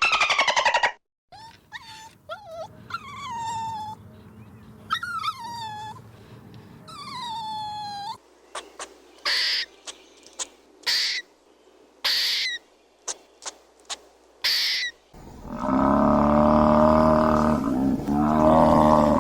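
A run of animal calls from different animals in turn. First come three drawn-out calls that fall in pitch, then a string of short, high, sharp calls. About fifteen seconds in, a loud, deep, sustained roaring call starts.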